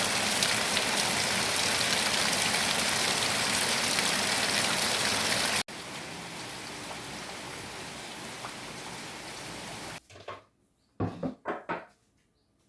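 Steady rain falling, heavy and even at first, then suddenly softer from about six seconds in. About ten seconds in the rain cuts off, and a few short, sharp sounds follow near the end.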